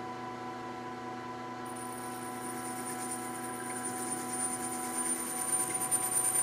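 A metal lathe runs steadily while a parting tool cuts a thin-walled spinning part off. About two seconds in, a high-pitched ringing squeal starts and keeps on, growing louder and rougher near the end. The machinist puts this tool chatter down to running at too high an RPM.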